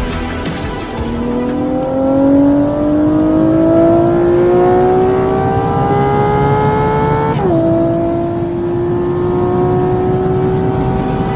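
Ferrari 812 Superfast's V12 engine accelerating through the gears. The revs climb steadily for several seconds, drop sharply at an upshift about seven seconds in, then climb again in the next gear.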